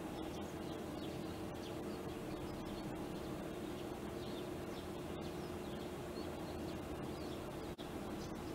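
Birds chirping repeatedly with short, high, falling notes, over a steady low hum.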